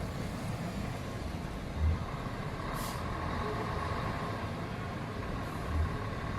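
Heavy trucks running on the road, with a short hiss of air brakes about three seconds in and two low thumps.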